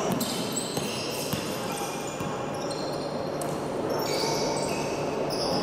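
Basketball game on a court: the ball bouncing, with many short high squeaks of players' shoes, over a steady background of court and crowd noise.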